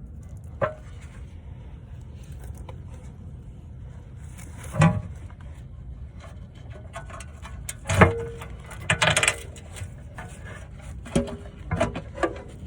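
Metal clanks and knocks of tools and parts being handled during transmission work, a few with a short ring, over a low steady rumble. The loudest knocks come about five, eight and nine seconds in, with several smaller ones near the end.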